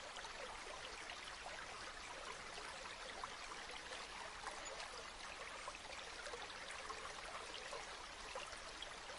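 River water flowing steadily, with a soft, even rush dotted with many small splashes and trickles.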